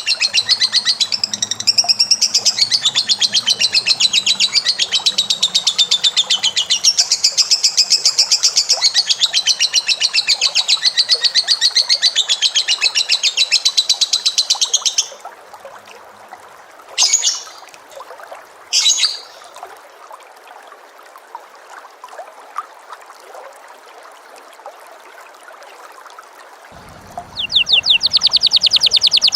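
Cage bird giving a long, very fast run of high repeated notes for about fifteen seconds, then two short separate calls a couple of seconds apart, a lull, and the fast run starting again near the end.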